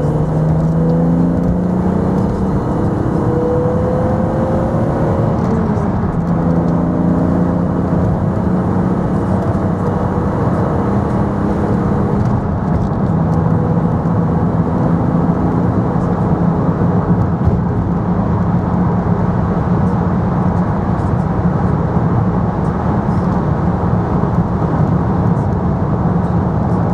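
Car engine and road noise while driving: the engine note rises as it accelerates, drops at a gear change about six seconds in, rises again, then holds steady at cruising speed.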